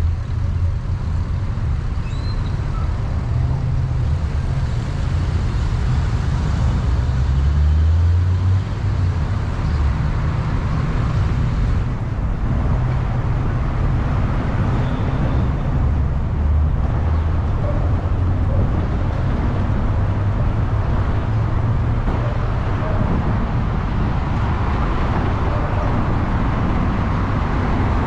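A car driving on the road: steady low engine and tyre rumble that rises and eases slightly as it goes.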